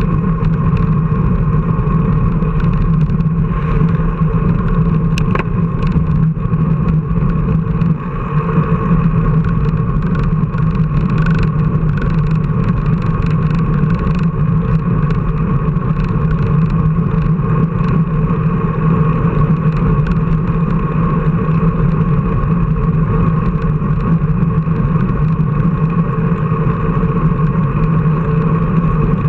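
An engine running steadily at a constant speed, a loud, even drone with no rise or fall in pitch.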